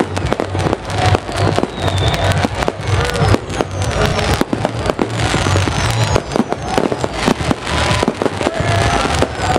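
Many fireworks and firecrackers going off at once: a dense, unbroken run of overlapping bangs, pops and crackles, with no pause between them.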